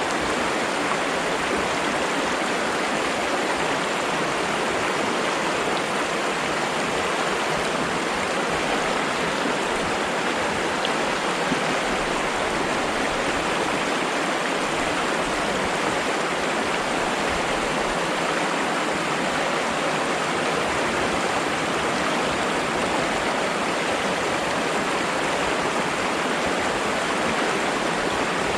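Flowing water, a stream rushing and splashing at a steady, even level.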